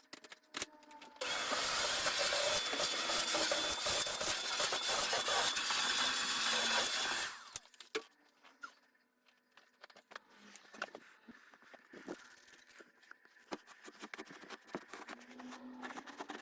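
Cleaning noise: a loud, dense rushing and scrubbing sound starting about a second in and lasting about six seconds, then light knocks and clicks of things being handled.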